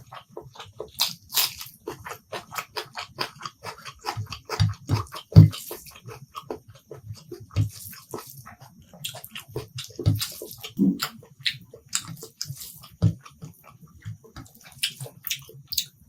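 Close-up eating sounds: wet chewing and lip-smacking of a mouthful of curry and rice, a quick run of irregular clicks and smacks, with one louder bite about five seconds in.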